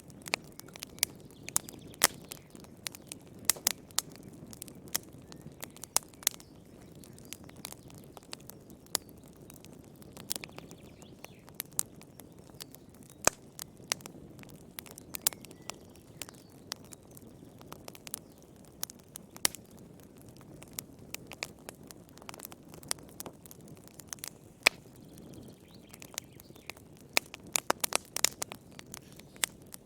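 Wood fire crackling in a fireplace: irregular sharp pops and snaps over a steady low rush of the flames, the pops coming thickest near the end.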